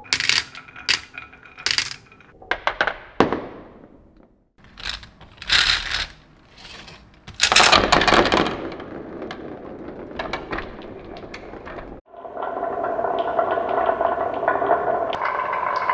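Glass marbles clacking against each other and a toy track in a run of sharp clicks, then rolling steadily along the track with a light ringing from about twelve seconds in.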